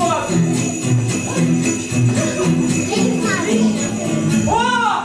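Jingle bells shaking in a steady, even beat over festive music with a stepping bass line.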